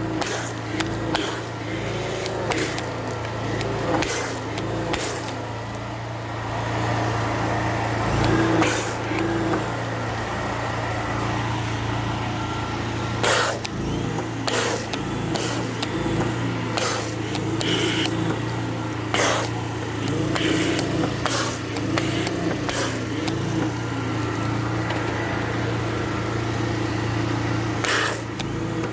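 Small engine running steadily at a constant pitch, with scattered sharp clicks and knocks over it.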